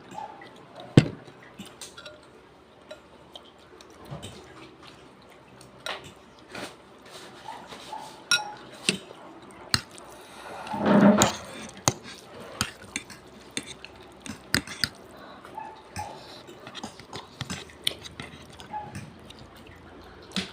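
Utensils clicking and clinking against a plate while noodles are eaten, in scattered short taps. About eleven seconds in there is a louder, short voiced sound lasting about a second.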